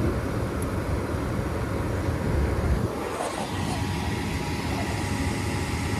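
Goodman gas furnace running with its burners lit: a low rumble that drops away about three seconds in, leaving a steadier running noise with a few faint ticks. The unit is shaking as it runs, for a cause the technician has not found.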